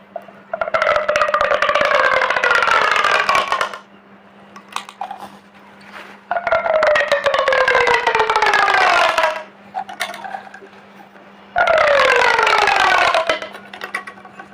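Pop tube, a corrugated plastic toy tube, stretched three times. Each stretch gives a long buzzing tone of rapid clicks that falls steadily in pitch over two to three seconds, with a few short clicks in between.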